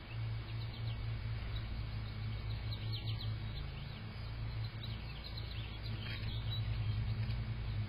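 Small birds chirping in short, quick high notes, with a couple of downward-sliding calls about three and six seconds in, over a steady low hum.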